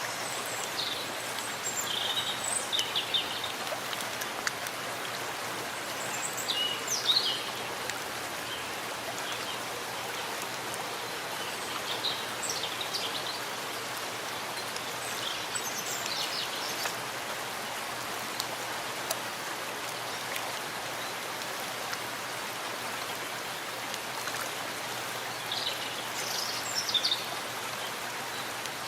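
Steady rain falling in a forest, an even hiss. Birds chirp briefly several times over it, loudest a few seconds in and near the end.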